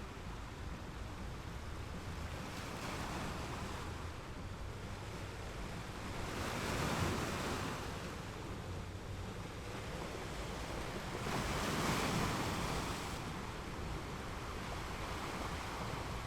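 Ocean waves washing in steadily, with two louder waves surging and breaking, one about halfway through and one about three quarters of the way through.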